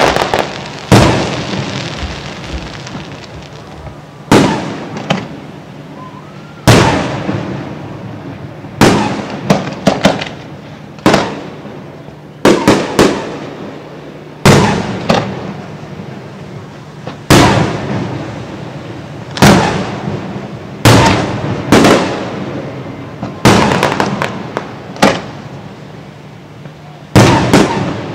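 Aerial fireworks shells bursting one after another, a loud blast every second or two, often in quick doubles and triples, each boom echoing away before the next.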